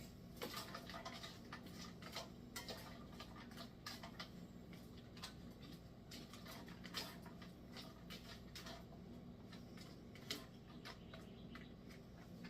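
Faint, irregular crackling and popping of frozen pearl onions and sliced garlic cooking in a hot skillet, over a low steady hum.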